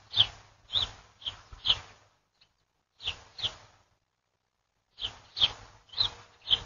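A small bird chirping repeatedly: about a dozen short, sharp chirps in quick runs, with two short pauses midway.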